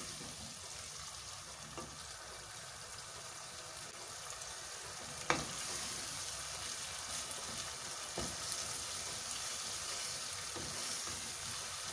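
Minced meat frying with ginger, garlic and green chilli paste, sizzling steadily in oil as a wooden spatula stirs it. A few knocks of the spatula against the pan, the loudest about five seconds in.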